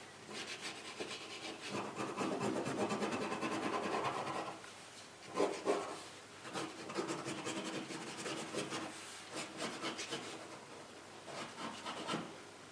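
Pen nib scratching across watercolour paper in quick strokes as ink lines are drawn, busiest from about two to four and a half seconds in.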